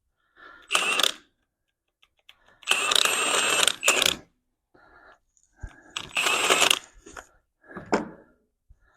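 Metal tools working on a truck part: four bursts of metallic clicking and rattling, the longest about a second and a half, with quiet gaps between.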